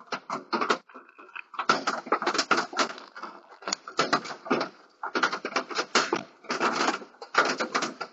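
Rapid crunching and clicking in bursts of about a second each, with short pauses between them: an animal working at something in a chicken coop.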